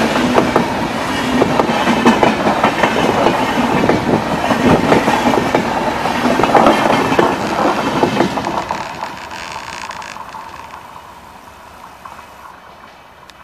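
A Rajdhani Express rake of passenger coaches passing close at speed, its wheels clattering over the rails. After about eight seconds the sound fades steadily as the last coach moves away.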